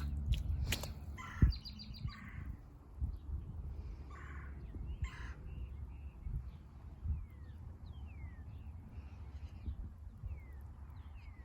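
Crows cawing about five times in the first half, then a small bird giving short falling chirps.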